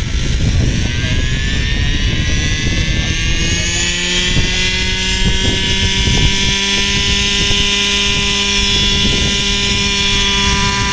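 Hirobo radio-controlled model helicopter running, its engine and rotors spooling up to a higher pitch over the first few seconds and then holding a steady whine at hover, with a low rumble of rotor wash underneath.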